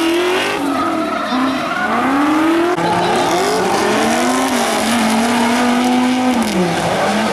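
Drift cars at full throttle, their engines revving up and down repeatedly over squealing tyres. Later, one engine holds a high note for over a second, then drops away.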